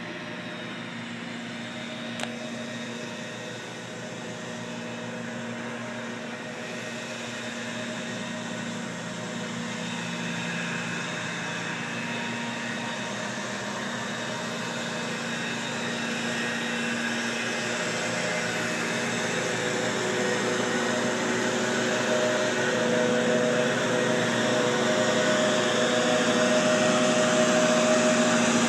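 A steady motor drone with a constant hum running through it, growing gradually louder.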